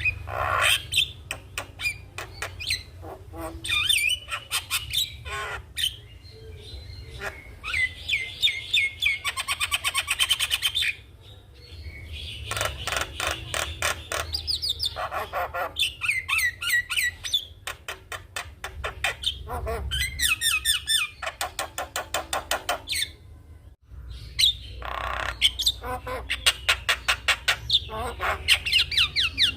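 Javan myna singing vigorously: long runs of fast repeated chattering notes mixed with whistles and harsh squawks, broken by short pauses. A steady low hum sits underneath.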